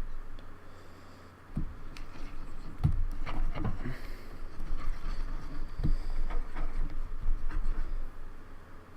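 Irregular taps, knocks and rubbing of hands working on a plastic computer keyboard as it is scrubbed clean with isopropyl alcohol and cotton swabs.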